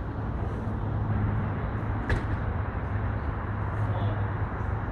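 Fire engine idling with a steady low hum, and one sharp click about two seconds in.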